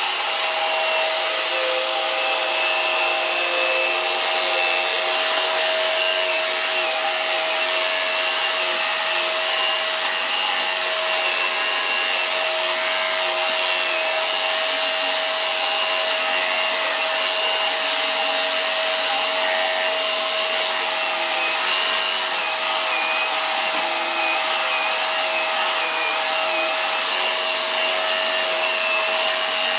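Hoover Power Drive Pet bagless vacuum cleaner running steadily, with a constant motor hum and a higher whine that wavers slightly.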